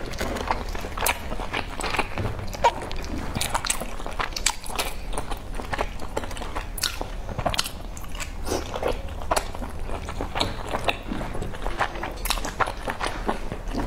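Close-up eating sounds of soft boiled dumplings in chili oil sauce being chewed: irregular wet mouth smacks and clicks.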